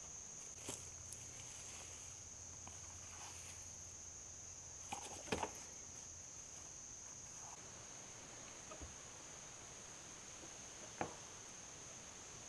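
Insects giving a steady, high-pitched, continuous trill, with a few faint clicks.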